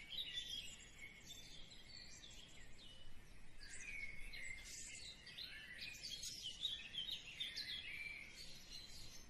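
Faint chirping and twittering of small birds, many short high calls overlapping over a low background hiss.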